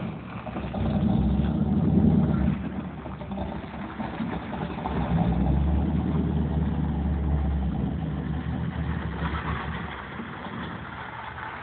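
Chrysler 383 big-block V8 in a four-speed pickup truck, running and pulling harder twice, about a second in and again around the middle, then settling lower.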